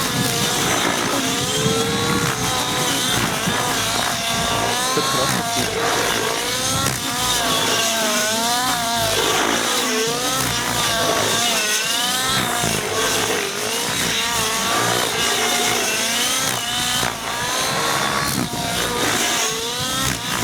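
Velocity-90 RC helicopter flown hard through 3D manoeuvres, its engine and rotor note swooping up and down in pitch every second or two as the blades load and unload.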